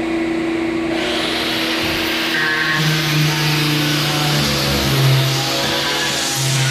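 Electric power tool starting about a second in, its motor whine rising as it spins up, then grinding against the wooden floor with the pitch wavering under load, breaking up the old finish. A steady fan-like hum runs beneath it.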